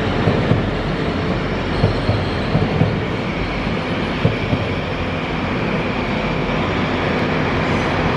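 Grand Central passenger train moving through the station: the wheels knock over rail joints in the first few seconds, then a steady low tone carries on under the running noise.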